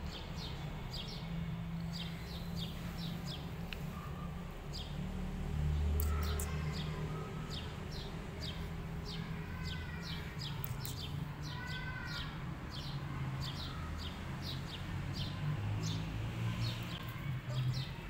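Small birds chirping, short high chirps several a second, with a few longer arching calls about ten and twelve seconds in. A low rumble runs underneath and swells briefly about six seconds in.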